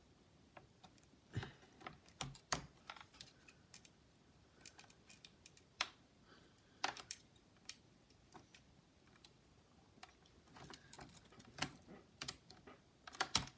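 Faint, irregular light clicks and taps of hands working on an open laptop, handling its plastic parts and ribbon-cable connectors, with a quick run of clicks near the end.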